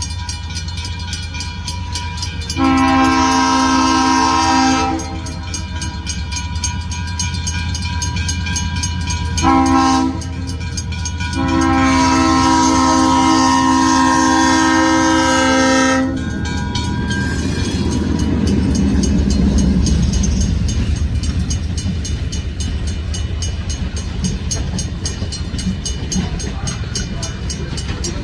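Train horn sounding for a grade crossing: a long multi-note blast, then a short one and a long one. After it the train rumbles past over the rails.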